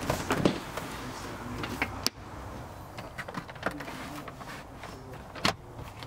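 Sharp clicks and knocks from a car's doors and fittings. A low hum cuts off with a click about two seconds in, and the loudest knocks come about half a second in and near the end.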